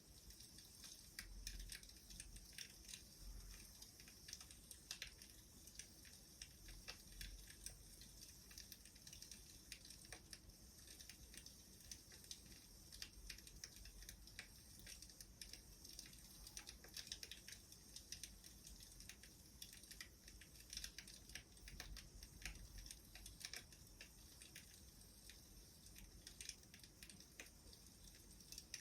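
Faint wood fire crackling: irregular small pops and snaps over a soft hiss.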